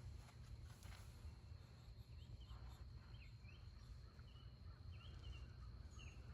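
Near silence: faint outdoor background with a low rumble and a few small, faint bird chirps from about two seconds in.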